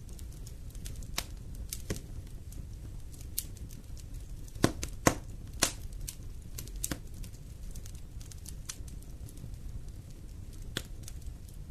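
Wood fire burning in a fireplace: irregular crackles and sharp pops over a low steady rumble of flames, with a cluster of louder pops about five seconds in.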